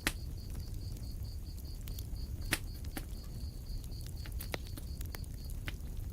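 Wood fire crackling in a fireplace: irregular sharp pops and snaps over a low steady rumble of the flames, the loudest pops at the very start and about two and a half seconds in. A faint high pulsing, about five beats a second, runs underneath and stops near the end.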